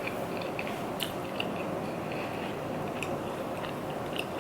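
Close-up mouth sounds of someone chewing food, with scattered small wet clicks and a few sharper ticks.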